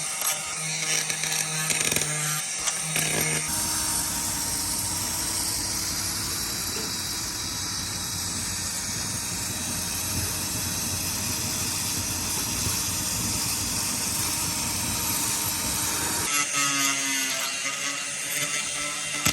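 Power tool sanding paint off the bus's riveted metal roof, running steadily from about 3.5 s until it stops about 16 s in. The start and the last few seconds hold a choppier, different sound.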